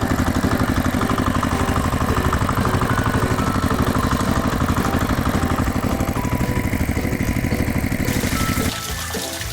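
Mini tractor engine chugging steadily in rapid even pulses, over background music, cutting off near the end.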